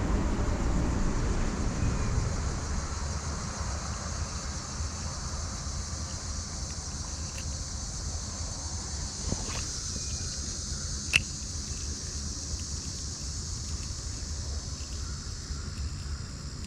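Steady outdoor background at a creek: a low rumble with a constant high hiss, and a single sharp click about eleven seconds in.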